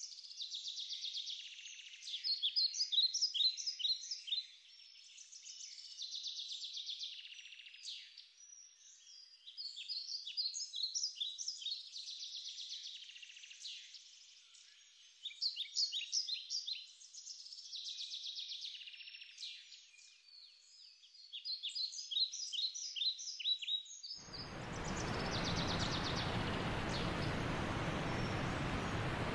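Small-bird calls: high chirps in phrases a few seconds apart, alternating with buzzy trills. About three-quarters of the way through, a steady rushing hiss starts and runs under the calls.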